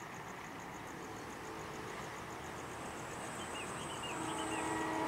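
Approaching Sembrani express train, still at a distance, its sound growing steadily louder with a few faint steady tones in it. A steady rapid pulsing of insects and a few bird chirps run underneath.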